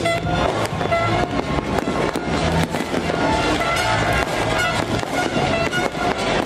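Fireworks going off in a rapid string of bangs and crackles, layered over loud music with a heavy bass line.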